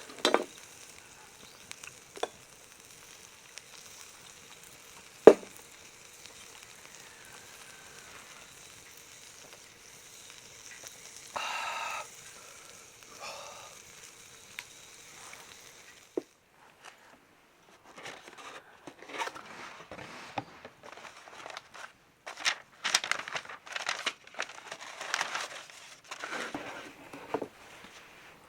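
Meat sizzling on a charcoal shichirin grill: a steady high hiss with a few sharp clicks and pops, the loudest about five seconds in. The sizzle cuts off suddenly about 16 seconds in, and irregular crinkling and crunching follow.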